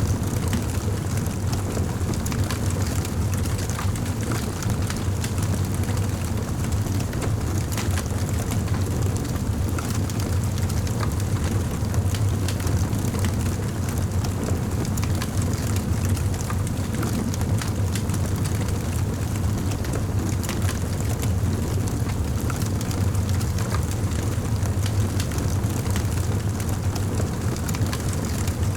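Wood fire burning in a fireplace: continual small crackles and pops over a steady low rumble of flame.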